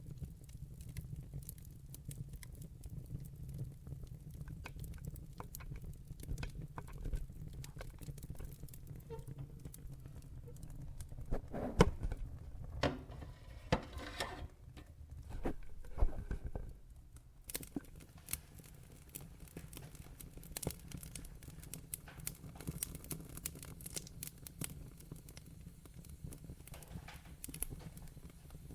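Wood fire in a fireplace crackling over a steady low rumble of flames, with scattered small pops. About halfway there is a louder spell of sharp pops and denser crackling for a few seconds.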